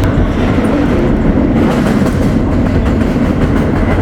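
Train running on the rails: steady rumble and rail noise of a moving train.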